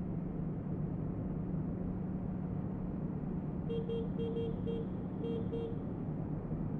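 Motorbike engine running steadily under wind and road noise. About four seconds in comes a quick run of roughly eight short beeps, lasting about two seconds.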